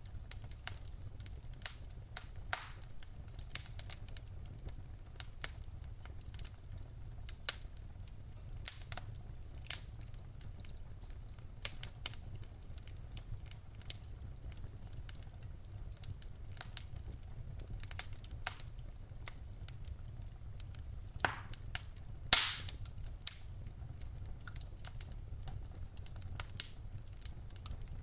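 Wood fire burning in a fireplace: irregular sharp crackles and pops over a steady low rumble of the flames, with two louder pops about 21 and 22 seconds in.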